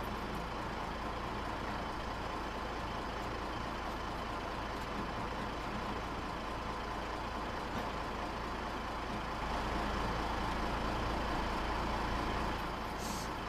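Steady outdoor engine rumble with a haze of noise, swelling slightly for a few seconds near the end.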